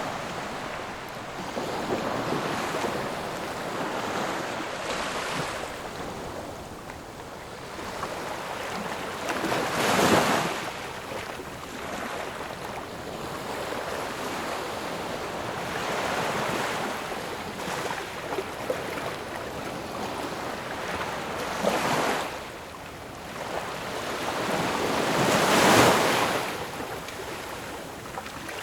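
Ocean waves washing onto a shore in a continuous rush, with three louder breaking swells, about ten seconds in, about twenty-two seconds in, and the loudest near the end.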